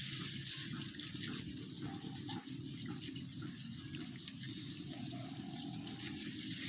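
Water running in a steady trickling flow, with a few faint drips or ticks.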